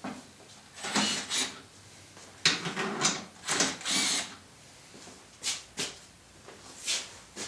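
Tool noise from adjusting the threaded corner height adjusters under a benchtop table saw: three short rasping mechanical bursts, then a few sharp clicks near the end.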